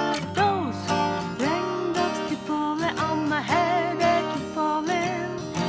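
A woman singing a slow melody with some vibrato over a strummed acoustic guitar.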